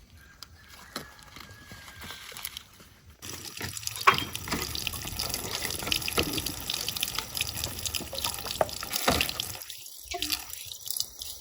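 Water running from a tap and splashing into a container or basin. It starts suddenly about three seconds in and keeps going, with small splashes and drips.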